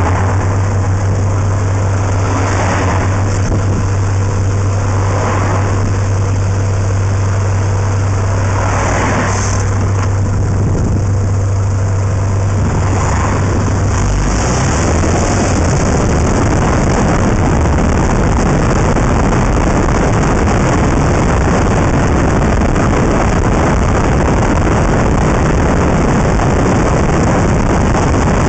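Honda Integra Type R's 1.8-litre four-cylinder engine and exhaust, heard from outside the moving car: a steady low drone for about the first half. After that it is buried under rushing wind and road noise on the exterior-mounted microphone.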